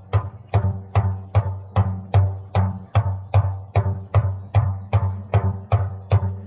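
Steady shamanic journey drumming on a hand drum: single even beats, about two and a half a second, each a sharp strike over a deep ringing boom.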